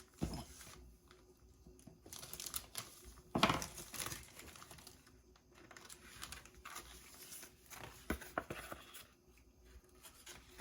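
Plastic model kit parts and their packaging crinkling and rustling as they are handled, in short irregular bursts, the loudest about three and a half seconds in.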